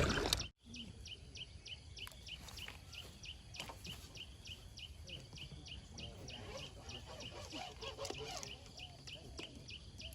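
A bird chirping steadily outdoors, one short high chirp about four times a second, over faint background noise.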